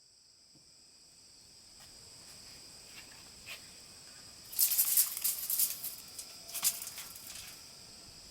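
Insects chirring in a steady high drone, with two clusters of crackling, rustling clicks about halfway through and again shortly after, which are the loudest part.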